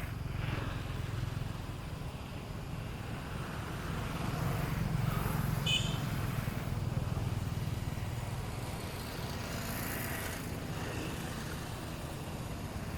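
A steady low rumble, with a short high-pitched squeak about six seconds in.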